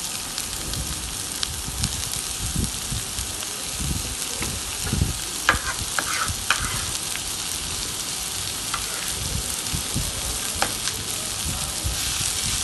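Spinach sautéing in hot oil with onion: a steady sizzle, with stirring strokes and a few sharp clicks of the utensil against the pan.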